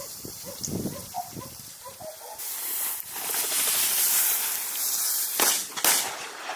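Rustling through dry grass and brush, rising to a loud, even hiss about two seconds in, then two sharp cracks about half a second apart near the end.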